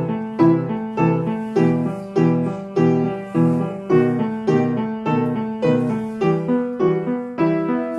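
Piano accompaniment for a ballet barre exercise: chords struck on a steady, even beat, a little under two a second.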